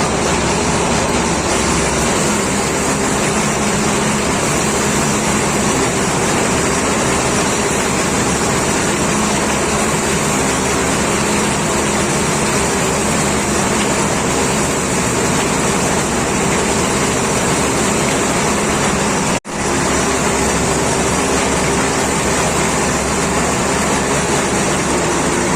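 Motor-driven rotary chicken-plucking machine running steadily, a loud even mechanical drone with a faint hum. It cuts out for an instant about three-quarters of the way through.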